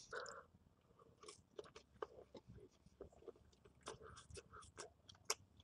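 Faint, irregular clicks and crunches of a person biting and chewing food close to the microphone.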